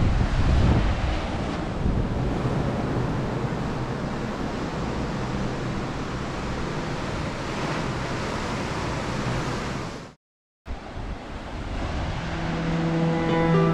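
Wind buffeting the microphone over the wash of surf, fading out about ten seconds in. After a moment of silence, acoustic guitar music fades in near the end.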